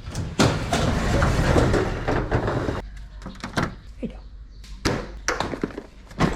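A couple of seconds of dense rushing noise, then a series of sharp knocks and clunks.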